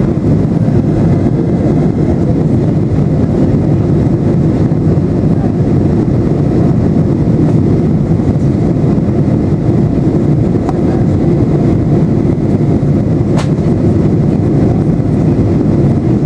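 Boeing 737-800 in flight, heard from inside the passenger cabin: a steady, loud, low rumble of engine and airflow noise. A single sharp click comes about 13 seconds in.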